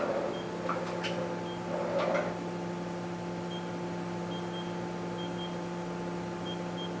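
Telescoping way covers of a DMG Mori NHX 5000 horizontal machining center sliding as its axes traverse: a few short swishes in the first two seconds, then only the machine's steady hum.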